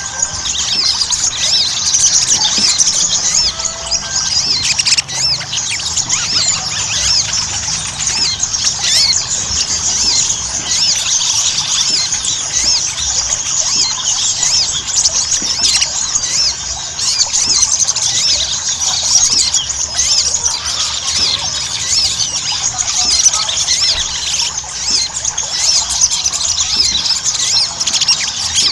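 Sogon (sogok ontong), a sunbird, singing a dense, continuous high-pitched chattering song of rapid overlapping chirps without a break. This is the fast 'gacor' full song used to spur other sogon into singing.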